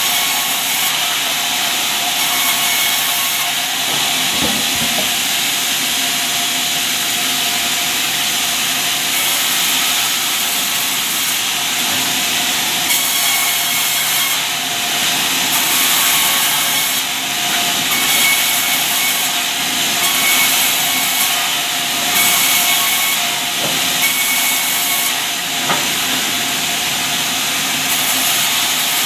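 Sawmill saw running and cutting albasia wood into beams: a loud, steady, noisy sound with a constant whine underneath.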